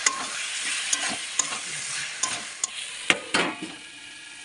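Chicken pieces sizzling in hot oil and masala in a metal kadai as a metal spatula stirs them, clinking and scraping against the pan about seven times. The sizzling is the sound of the meat frying in masala that has been cooked until the oil separates. It grows quieter near the end.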